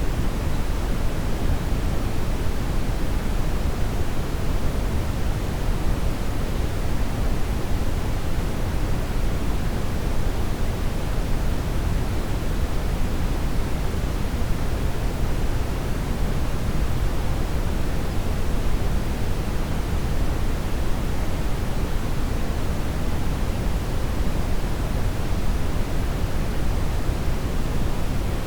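Steady brown noise: an even, unchanging rush, deepest and strongest in the low end and fading toward the highs.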